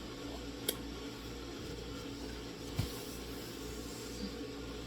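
Steady low room hum and hiss, with a sharp click about two-thirds of a second in and a short soft knock near three seconds.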